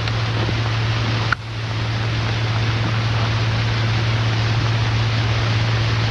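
Steady hiss and a constant low hum, the background noise of an old optical film soundtrack, broken by a single click a little over a second in.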